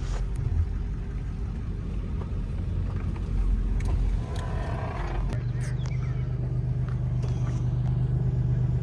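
Low, steady rumble of a running vehicle engine, settling into a more even drone about five seconds in.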